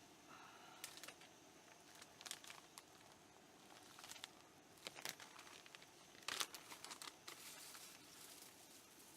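Quiet, intermittent crinkling and rustling, like material or packaging being handled, with a few louder rustles around one, five and six and a half seconds in.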